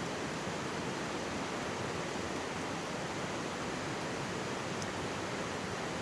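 Mountain stream rushing steadily in an even wash of water noise, with a single faint crackle of a wood campfire close by, about three-quarters of the way through.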